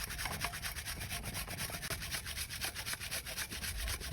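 Quick, even back-and-forth rubbing strokes of hand scrubbing on a clutch plate during its cleanup, several strokes a second.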